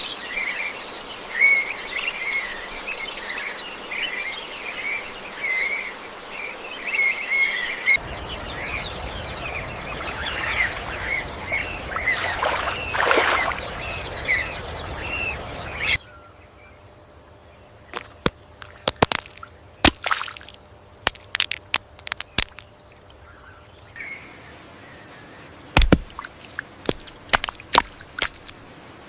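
Rainforest ambience of small birds chirping rapidly, then a steady high-pitched hum under more chirps. Near the middle the sound drops to a quieter bed with scattered sharp clicks and crackles. The changes come abruptly, in blocks of about eight seconds.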